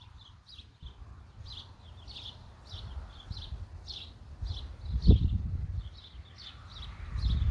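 A bird chirping over and over in short high chirps, about two a second. Low rumbles on the microphone swell up about five seconds in and again near the end.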